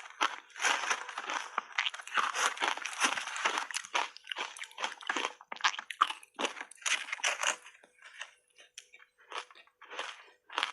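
A person biting and chewing crunchy shaved ice: dense, irregular crunching that thins out to scattered crunches over the last few seconds.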